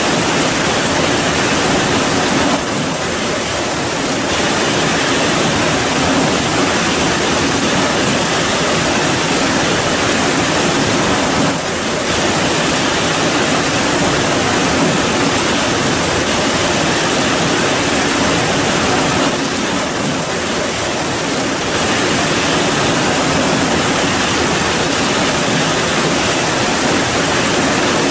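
Heavy rain falling as a steady, dense hiss that eases slightly a few times.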